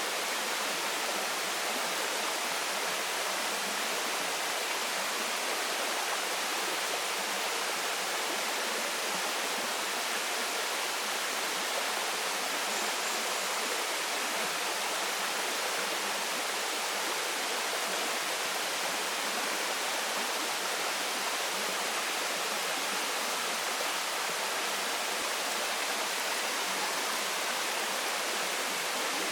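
Waterfall pouring steadily into a stream, a constant rushing of water with no change in level.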